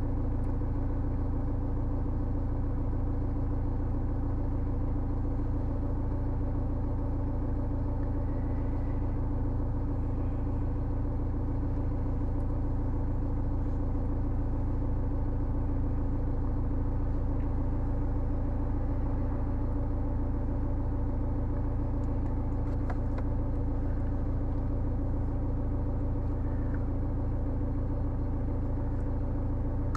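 BMW E90's engine idling, heard from inside the cabin as a steady low hum.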